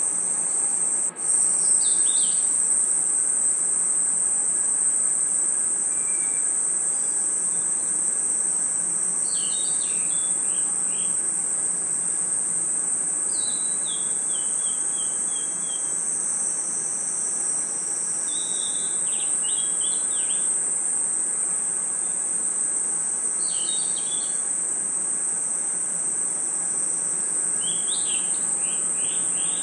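Night chorus of crickets and other insects: a steady high-pitched trill, with short descending chirping calls every four to five seconds over it. The chorus briefly drops out about a second in.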